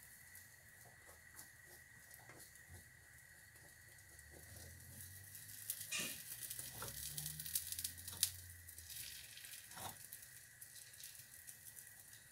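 Egg and mushroom omelette frying quietly in a pan over a gas flame, a soft steady sizzle, with small scrapes and taps of a spatula against the pan that are busiest about halfway through.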